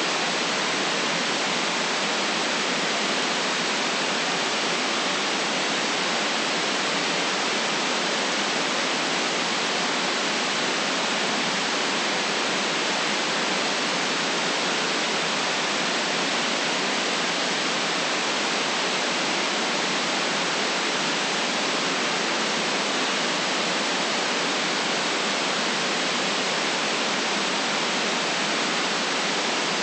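Steady synthetic white noise hiss, constant and unchanging, band-limited with nothing below about 150 Hz or above about 9 kHz.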